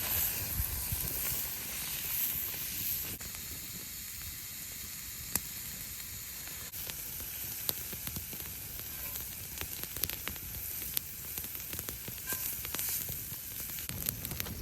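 Chicken sizzling as it cooks on a campfire: a steady hiss with sharp crackles now and then.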